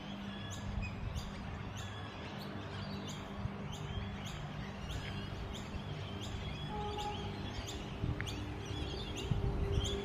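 Birdsong from eucalyptus trees: many birds chirping and whistling, with one high, short chirp repeating about twice a second.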